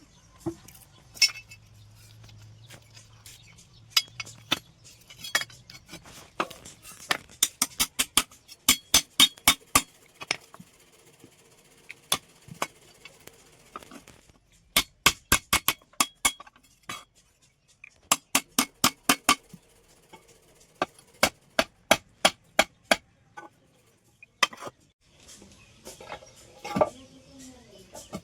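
Hammer blows ringing on steel over an anvil, in runs of quick strikes with short pauses between them, as the hoe blade is forged from an old steel plate.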